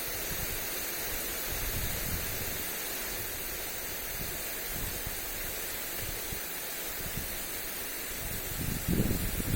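Lawn sprinkler spraying water onto grass, a steady hiss, with wind gusting on the microphone and strongest near the end.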